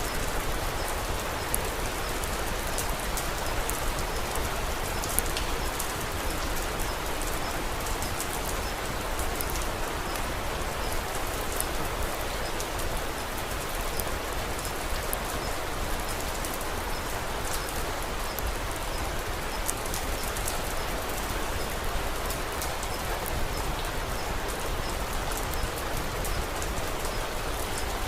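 Steady rain falling, an even unbroken hiss with many small sharp ticks scattered through it.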